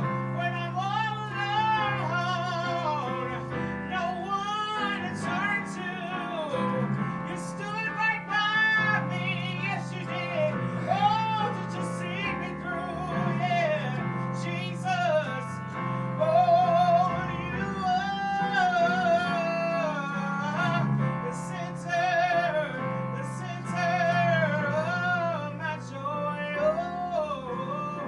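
A woman singing a slow, sustained melody with strong vibrato over instrumental accompaniment.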